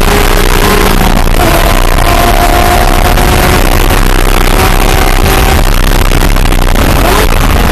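Porsche 997.2 GT3 RS's 3.8-litre flat-six engine being driven hard on a race track, under loud wind and road noise. The engine note climbs slowly, breaks off about two thirds of the way through, then sweeps up quickly near the end.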